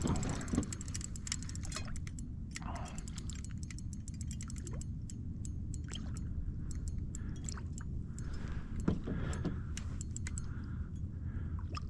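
Spinning reel clicking irregularly while a hooked fish is fought from a kayak: rapid clicks at first, then scattered ones, with water lapping softly against the hull.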